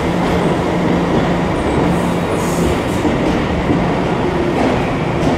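Deux-Montagnes line electric commuter train rolling in along an underground station platform: a steady loud rumble of wheels on rail with a low hum, and a few faint, brief high wheel squeals.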